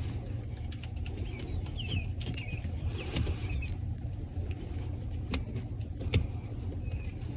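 Light clicks and taps from small metal terminal pins and a plastic wiring connector being handled and pushed into place, over a steady low rumble.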